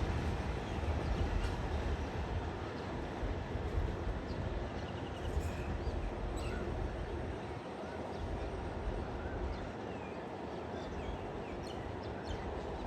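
Low rumble of a train moving along the tracks, easing off slightly, with birds chirping over it now and then.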